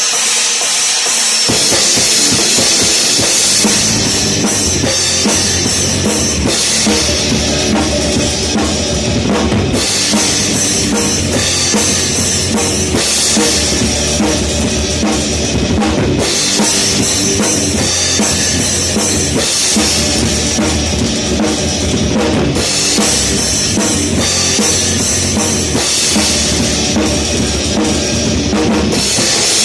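Rock drum kit played hard through a song with the band, the bass drum and cymbals loudest, in sections that change every few seconds.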